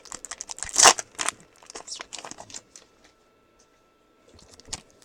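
Foil trading-card pack wrapper crinkling and tearing as a pack is opened, with the loudest rustle about a second in. It falls quiet after that, apart from a single click near the end.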